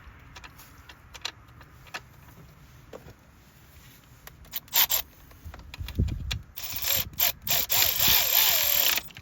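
Light clicks and handling of metal tools and parts, then a cordless ratchet running for about two seconds near the end as it drives in a coil pack bolt.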